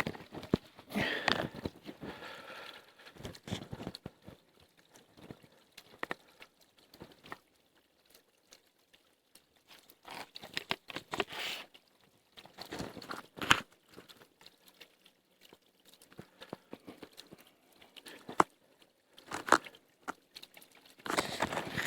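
Twigs and brush crunching and rustling in irregular bursts, with near-quiet gaps between them.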